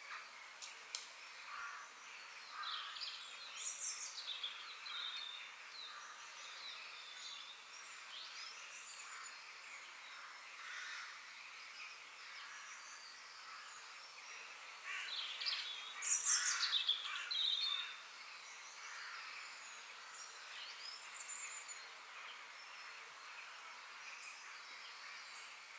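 Several wild birds chirping and calling over a steady faint hiss of background ambience, with a louder flurry of high, quick chirps a little past the middle.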